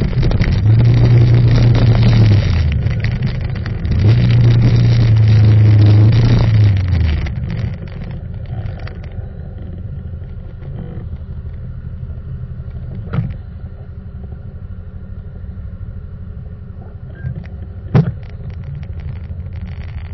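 Motorcycle engine under throttle while riding, held up twice and dropping off about seven seconds in, then settling to a steady idle at a stop. Two short sharp knocks sound during the idle, the second one near the end.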